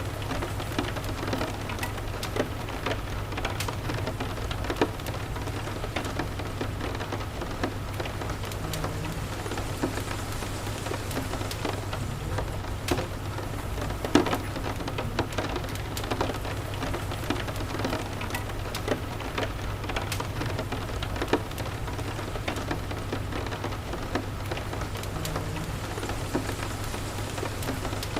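Steady rain with a low, steady rumble underneath and scattered sharp crackles and snaps from a wood fire. One louder snap comes about halfway through.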